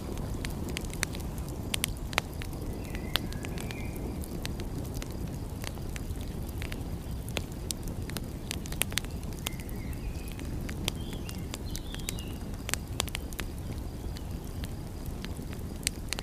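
Wood fire crackling, with frequent sharp pops over a steady low rush. A few brief high chirps come in twice: around three seconds in and again around ten to thirteen seconds.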